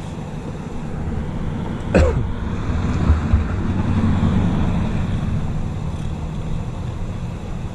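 A vehicle engine idling steadily, with a short sharp sound about two seconds in.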